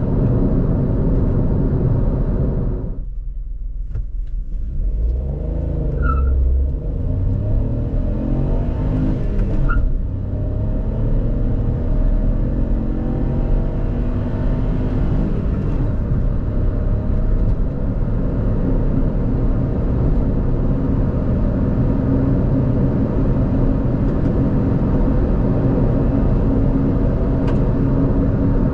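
Kia Picanto GT's 1.0-litre turbo three-cylinder engine under hard acceleration, driven through a five-speed manual. About three seconds in the sound dips briefly, then the revs climb in rising sweeps, broken by short gear changes a few seconds apart. After that it settles into steadier, slowly rising running.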